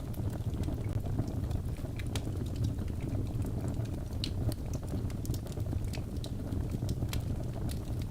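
Birch logs burning in a fireplace: a steady low rumble of the flames with irregular sharp crackles and pops throughout.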